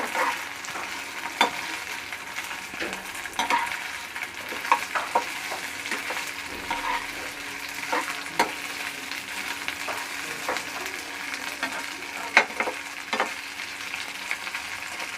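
Chicken pieces sizzling steadily in hot oil in a pan, with a spatula repeatedly clicking and scraping against the pan as they are stirred.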